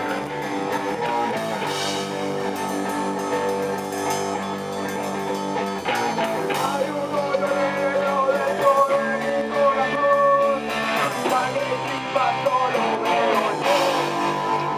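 Guitar-led intro of a garage-rock song, sustained guitar notes with a melodic line over them.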